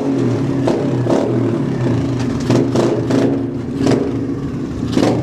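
Pit bike's small single-cylinder engine running at a fairly steady low throttle, with light blips and repeated short knocks and clatter.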